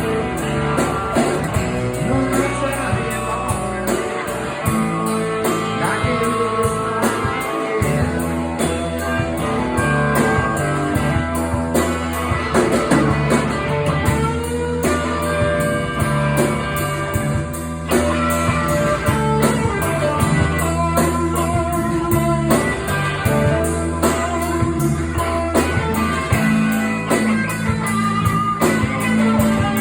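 Blues-rock band playing: guitar over a steady bass and drum beat, with singing.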